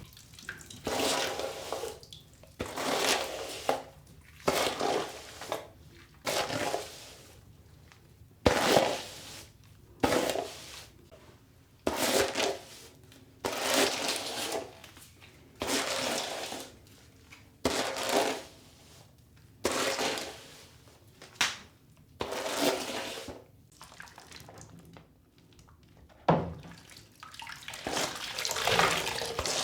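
Water splashing and gushing in short bursts about every two seconds as a doll's hair is rinsed under a tap, turning into a steadier flow over the last few seconds.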